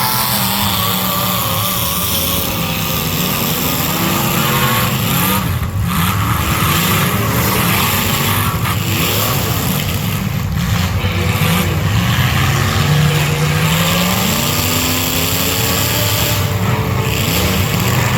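Several demolition derby cars' engines running and revving at once, their pitches rising and falling over one another throughout.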